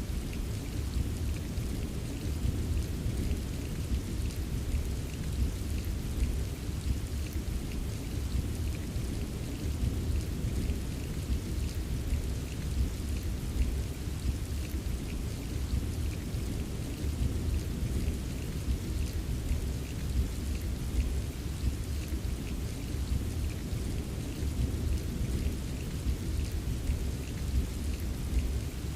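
Steady rain with scattered drop taps over a continuous low rumble of distant thunder.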